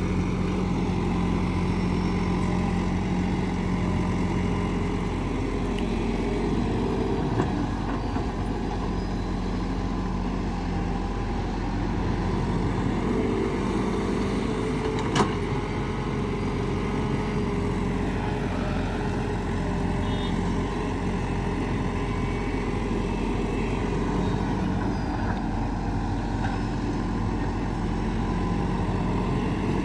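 Diesel engine of a locally built 'Veku' haulage vehicle running steadily, with a sharp knock about halfway through.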